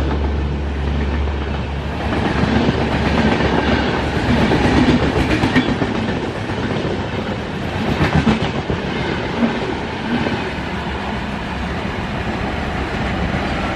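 AC double-decker passenger coaches of an express train passing at speed: a steady rail rumble with clickety-clack as the wheels cross rail joints, and louder clatters about five and eight seconds in, easing slightly as the last coaches go by.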